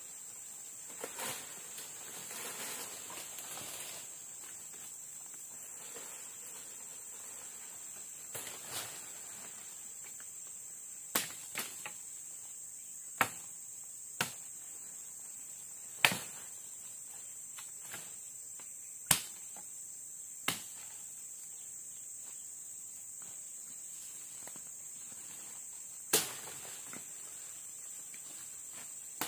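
Steady high-pitched chorus of crickets and other insects, broken by about eight sharp clicks or knocks at irregular intervals through the middle, the loudest about halfway through.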